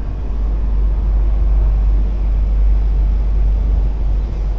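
Airport Rail Link train running, a steady low rumble of the moving carriage heard from inside it.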